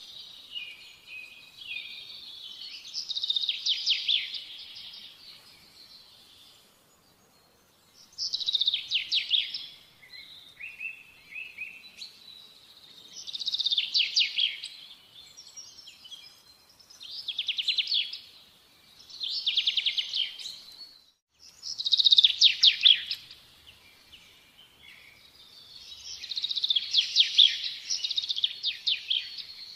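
A songbird singing: short, rapid trilled phrases, high in pitch, repeated every few seconds with brief pauses between them.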